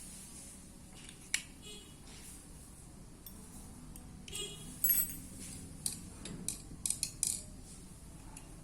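Light metallic clinks and taps, several sharp ones in a cluster in the second half, over a faint steady low hum.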